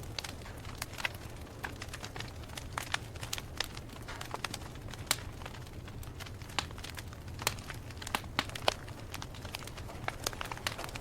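Wood campfire crackling, with irregular sharp pops and snaps of varying loudness over a steady low rumble.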